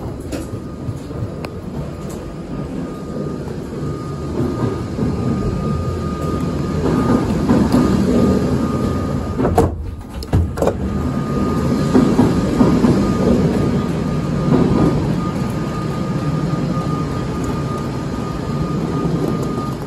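Rumble of a City Airport Train double-deck carriage with a thin steady high whine over it, as the train comes in and stands at the station. About ten seconds in, the rumble breaks off briefly with a couple of knocks as the door is opened with its push-button.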